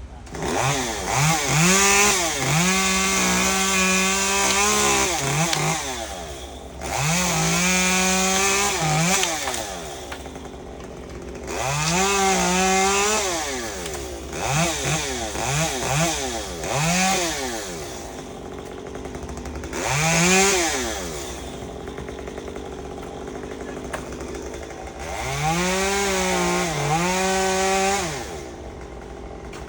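Two-stroke chainsaw run in about seven bursts of full throttle, each revving up, holding, then dropping back toward idle, as it works through wood.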